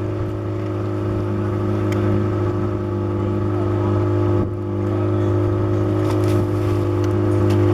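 Motorboat engine running steadily at constant speed, a continuous low hum, with a brief dip about halfway through.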